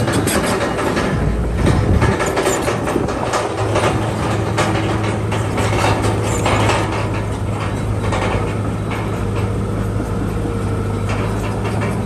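Crawler bulldozer's diesel engine running steadily with its steel tracks clanking and rattling. The clatter is thickest over the first half and thins out after that.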